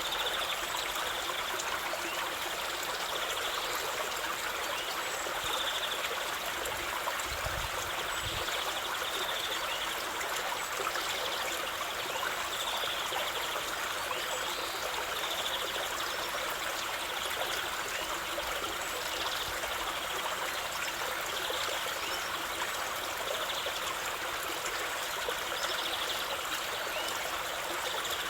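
Stream water running steadily over rocks, an even, unbroken rushing and trickling.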